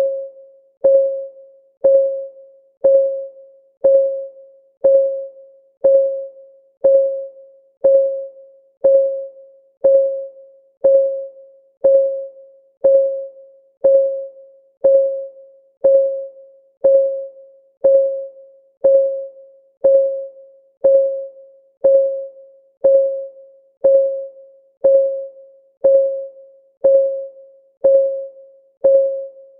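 Countdown timer's clock-ticking sound: a steady tick about once a second, each tick a sharp click with a brief mid-pitched ring that fades quickly.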